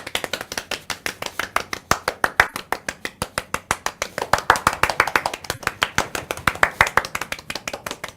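A few people clapping their hands in quick, even claps, welcoming someone in.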